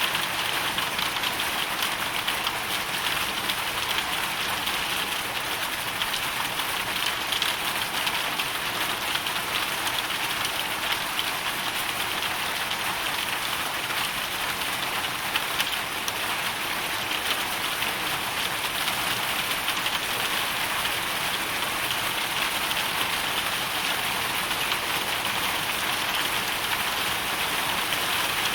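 Hailstorm: hail and rain falling steadily, a dense, even patter of many small ticks.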